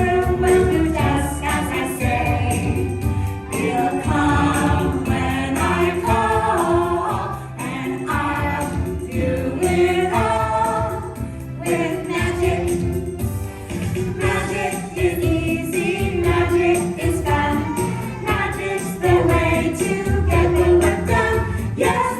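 A song with a group of voices singing over backing music.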